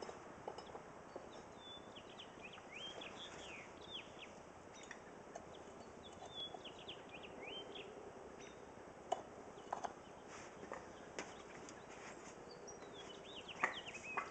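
Small birds chirping in scattered clusters of quick, high downward-sweeping notes over a faint outdoor hiss, with a few faint knocks around the middle and near the end.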